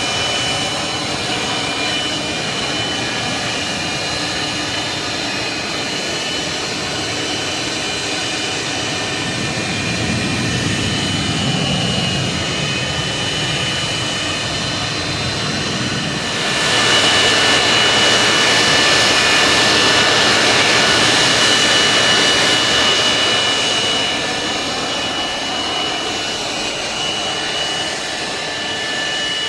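Aircraft engines of a display flight flying past, a steady rushing noise with a high whine held on several tones. It swells about halfway through, stays loud for several seconds, then fades back.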